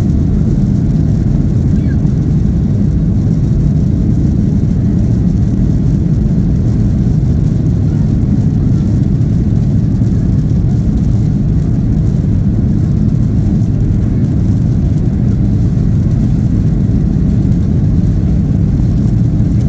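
Boeing 737-800 cabin noise, heard from a passenger seat: a steady, deep rumble of the CFM56-7B jet engines and air rushing past, holding an even level with no change.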